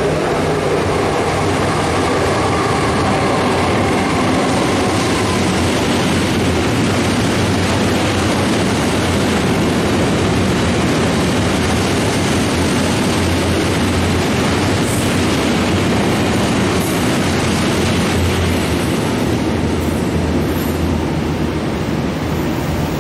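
Electric-hauled freight train passing close by: the locomotive goes by first, then a long string of covered freight wagons rolling and rattling over the rails in a loud, steady rumble.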